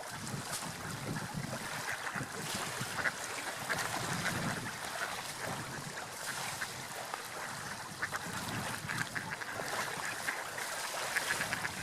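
Ducks feeding in shallow water: soft, intermittent quacking over a steady wash of water, dabbling and splashing.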